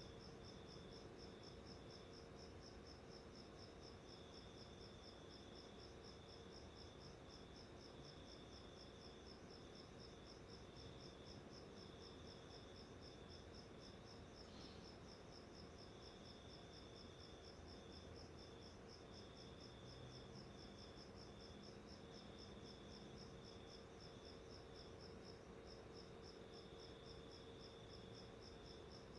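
Faint insect chirping: a steady high-pitched chirp repeating evenly several times a second, with a fainter tone just below it coming and going, over a steady low hum.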